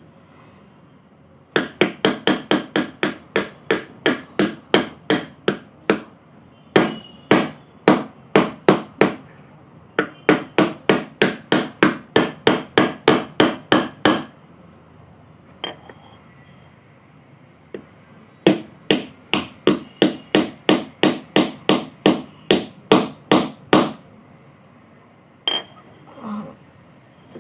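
Clay pot being struck over and over and broken, in quick, even runs of sharp knocks about four a second. The runs last several seconds each, with short pauses and a few single knocks between them.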